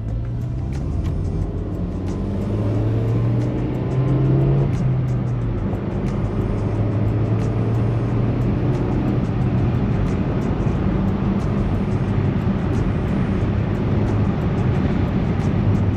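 Peugeot 306's 1.6-litre 8-valve four-cylinder petrol engine pulling under acceleration, its pitch rising for about four seconds and then dropping at an upshift. It then runs steadily at cruising speed with tyre and road noise.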